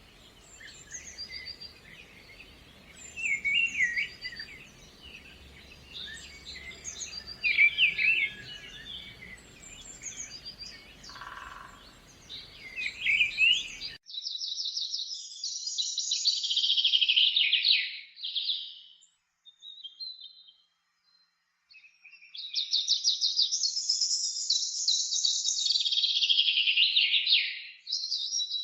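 Birdsong: assorted short high chirps and calls over a faint low rumble. About halfway through, the sound cuts abruptly to two long, rapid trilling songs a few seconds apart, with a brief lull between them.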